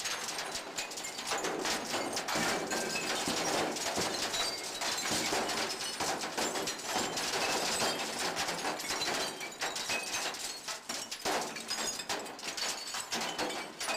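SSI Dual-Shear industrial shredder tearing up car engine blocks: a continuous din of cracking and crunching metal with short, high squeals mixed in.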